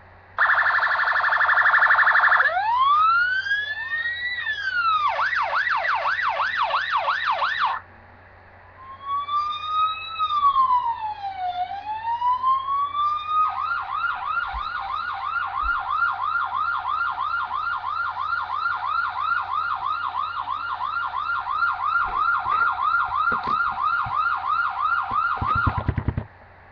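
Electronic emergency-vehicle siren switching through its tones: a rapid warble, a rising wail, and a fast yelp. After a brief break it plays a slow wail that falls and rises again, then a long fast yelp of about three sweeps a second, which cuts off shortly before the end.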